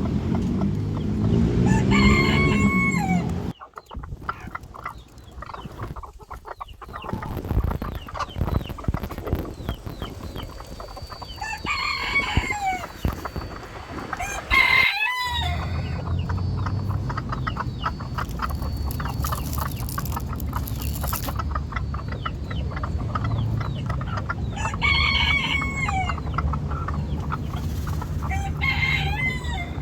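A rooster crowing about four times, each crow a long call that rises then drops away. A steady low hum runs underneath from the middle on.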